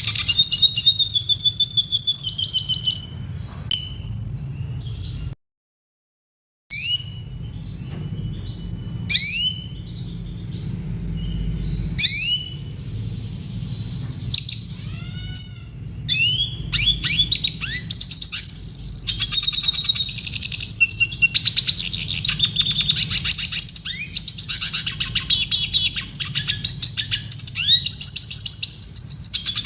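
Red siskin singing: fast, dense twittering trills, with a stretch of separate rising chirps in the middle. About five seconds in, the sound cuts out completely for a second or so.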